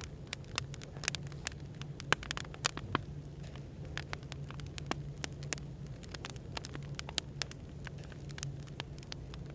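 Wood fire crackling: irregular sharp pops and snaps, several a second, over a steady low hum of background noise.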